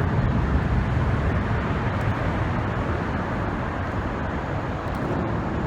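Steady rumble of multi-lane highway traffic, a continuous din like thunder.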